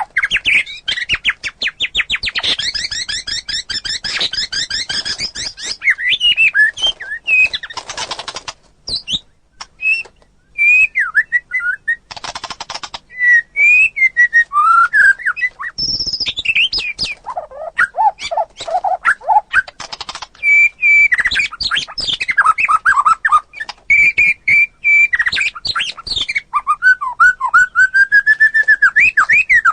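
White-rumped shama (murai batu) singing a long, varied song: a fast rattling trill in the first few seconds, then clear whistled phrases sliding up and down, broken by a few short harsh rasps.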